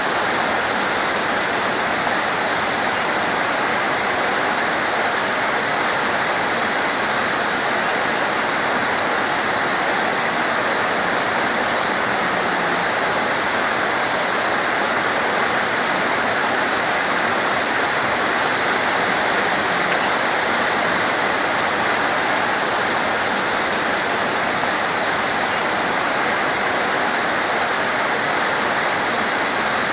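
Torrential rain pouring down, a dense, steady hiss with no letup, with a single sharp tick about nine seconds in.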